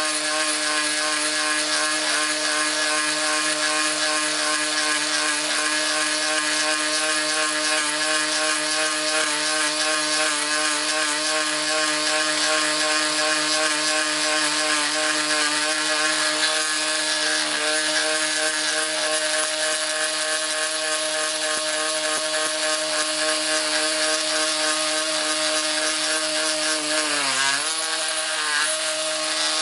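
Cordless multi-tool with a jigsaw attachment and carbide blade running steadily at its third speed setting while sawing, a continuous whirring hum. Near the end the pitch dips briefly twice as the blade loads up.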